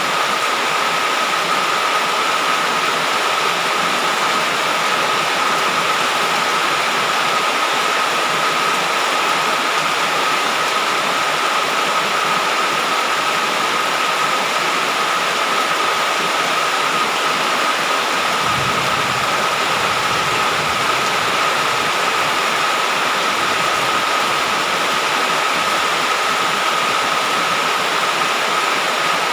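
Heavy rain falling in a steady, unbroken hiss, with a faint steady high tone running through it and a brief low rumble about two-thirds of the way through.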